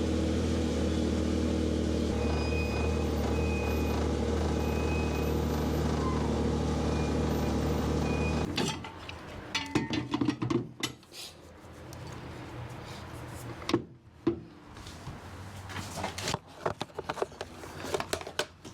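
Car engine running steadily, shut off about eight and a half seconds in. Then comes a string of irregular clicks and metallic clatter from the car being secured in the trailer with ratchet straps.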